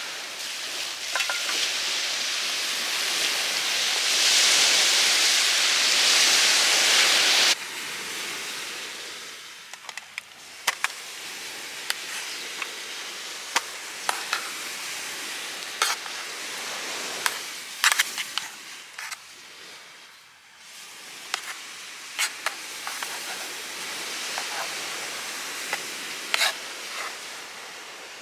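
Food sizzling in a frying pan for about seven seconds, cutting off abruptly, then a quieter stretch with scattered sharp clicks and taps.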